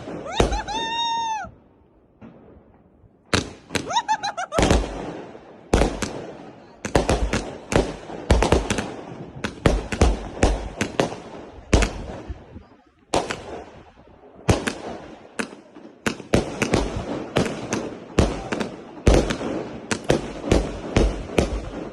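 Consumer firework batteries (cakes) on a self-fused pallet firing shot after shot: sharp bangs come about one to two a second, with brief pauses between. A whistle rises and falls once near the start.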